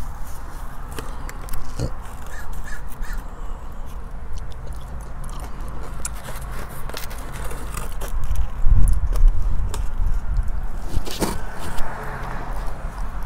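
A person chewing a mouthful of burger close to the microphone: wet mouth sounds and smacks over a steady low hum.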